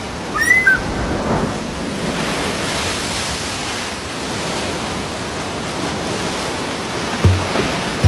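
Steady rushing sound of surf, with a few short bird chirps near the start. A plucked guitar note comes in near the end.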